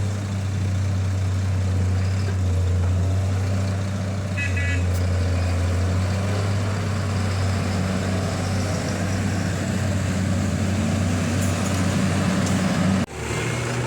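Heavy diesel machinery running steadily with a deep engine drone, as the big hydraulic excavator works loading haul trucks. There is a short high tone about four and a half seconds in, and about thirteen seconds in the sound breaks off abruptly and resumes with a different engine note.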